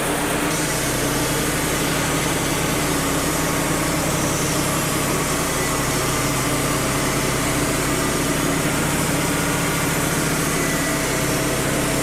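Wood-Mizer LT35 portable sawmill's engine running steadily, with the mill's machinery noise.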